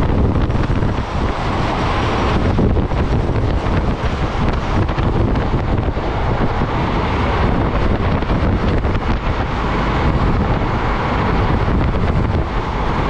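Wind buffeting the microphone over the steady rumble of a moving express passenger train.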